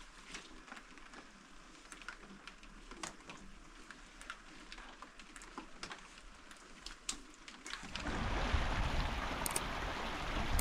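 Rain: scattered drips and small taps over a faint hiss, then about eight seconds in a much louder, steady rush of heavier rain starts abruptly.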